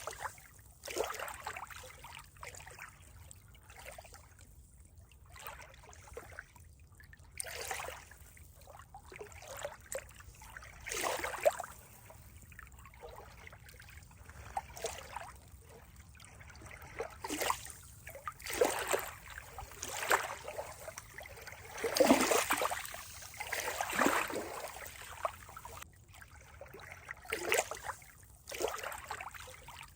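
Water trickling and splashing in irregular surges, some louder than others, over a steady low hiss.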